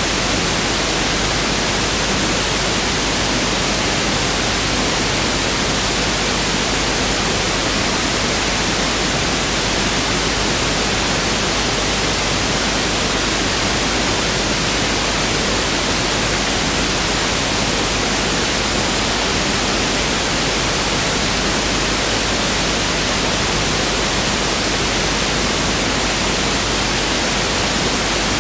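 Pink noise (1/f noise) test signal: a steady, unchanging hiss spread across the whole frequency range.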